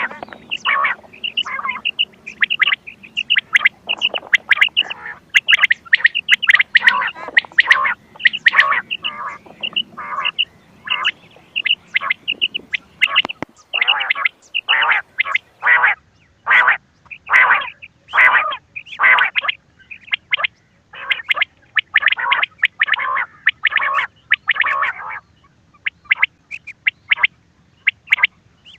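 Recorded quail calls of the kind used to lure quail for hunting: quick runs of short, sharp calling notes repeated many times a second, which become sparse near the end.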